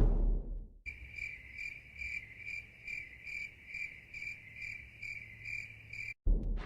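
Cricket chirping, a steady high chirp repeating about twice a second, coming in about a second in after a fading tail of the previous sound and cutting off abruptly near the end. The clean start and stop are typical of an inserted cricket sound effect used for an awkward silence.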